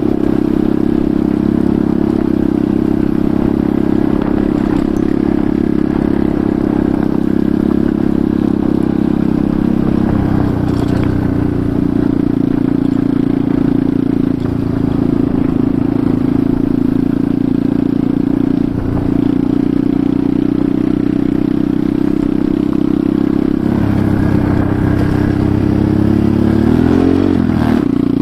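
Enduro motorcycle engine running steadily while riding, its pitch shifting slightly with the throttle, with a quick rev up and back down near the end.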